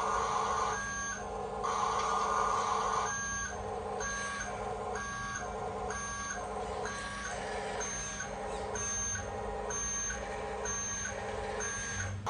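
Toy RC dump truck's electronic reversing beeper sounding short two-tone beeps, one early on and then a steady run a little more than one a second, over the whir of the truck's electric drive motor.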